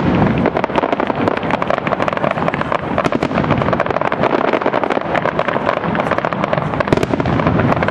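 Fireworks display: a dense, unbroken barrage of aerial shell bursts and crackling, many bangs a second overlapping one another.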